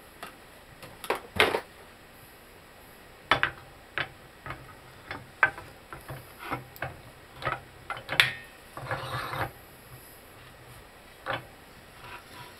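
Scattered metal clicks and knocks as a rubber bushing is worked and pressed into a VW Mk4 control arm held in a vise, with a short scrape about nine seconds in.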